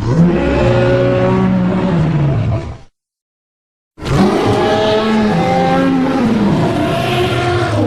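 Two creature roar sound effects for an animated dinosaur, about three and four seconds long, separated by a second of dead silence. Each is a loud, pitched call whose tones rise and fall.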